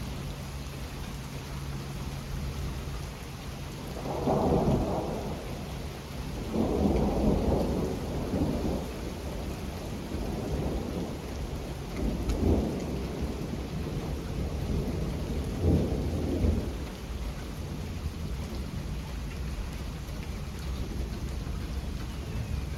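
Steady rain falling, with rolling thunder: several loud low rumbles come and go from about four seconds in to about seventeen seconds in.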